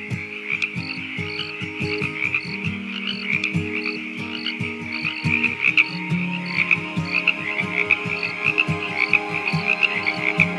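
Frog chorus, a dense croaking with short higher pips repeating two to three times a second. Under it, music with held low notes and a soft beat.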